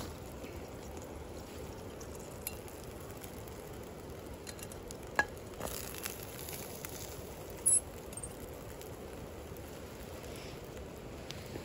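Hash brown patties frying in oil in a steel skillet set on a wood campfire: a steady sizzle, with a few sharp clicks, the loudest about eight seconds in.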